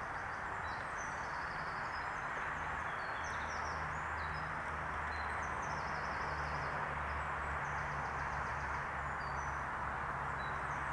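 Birds chirping and trilling over a steady rush of wind and tyre noise from a moving bicycle, with a low steady hum coming in about a second in.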